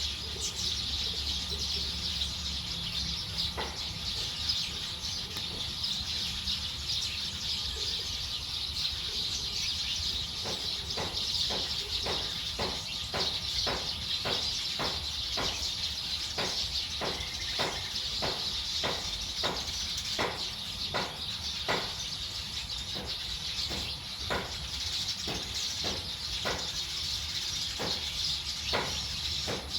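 A flock of many birds chirping together as they settle to roost, a dense steady chatter. From about a third of the way in, one call repeats sharply about twice a second.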